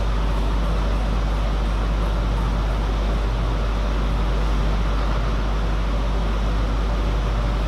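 Steady, even noise with a deep constant hum underneath and no ball strikes.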